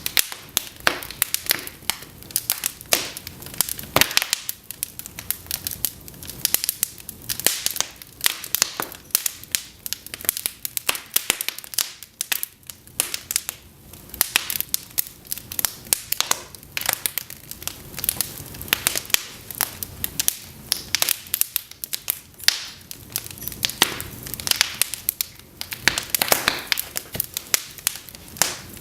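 Cedar logs burning in an open fireplace, crackling and popping steadily with many sharp snaps over a soft hiss of flame.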